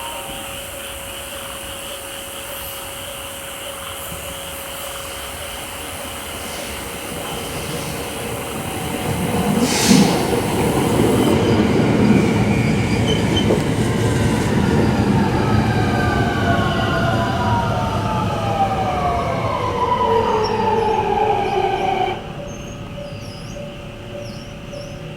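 JR 521-series electric multiple unit arriving and braking to a stop. Wheel and running noise builds as it approaches, with a sharp clack about ten seconds in. The motor inverter whine then falls steadily in pitch as the train slows, and the noise drops off suddenly as it halts near the end. A steady tone sounds underneath throughout.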